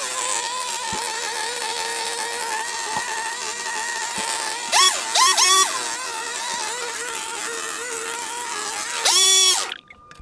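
Small two-stroke petrol garden power tool running at a steady high speed, revved up sharply and let back down about five seconds in and again near the end, where the sound cuts off abruptly.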